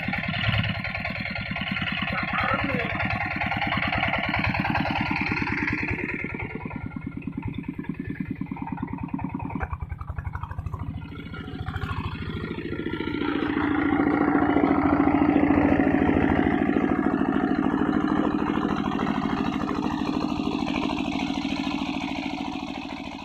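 Paddy-field hand tractor's diesel engine running under load while ploughing, with a steady firing beat. It drops off briefly about ten seconds in, then runs louder for several seconds before easing near the end.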